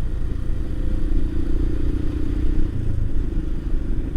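Motorcycle engine running under way, with a heavy low rumble of wind and road noise on the microphone. The engine note holds steady, then drops about two-thirds of the way through.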